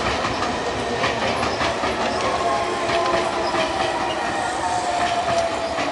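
Sotetsu electric commuter train rolling past at close range: steady wheel and rail noise with scattered clicks of wheels over rail joints. A faint whine slowly falls in pitch.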